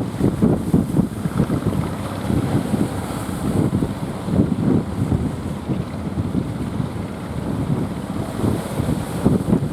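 Strong gusting wind buffeting the microphone in an uneven low rumble, with sea surf underneath.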